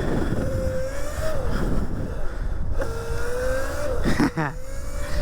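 Electric pit bike's motor whining, the pitch climbing slowly as it pulls and dropping away twice when the throttle comes off, over a steady low rumble of riding.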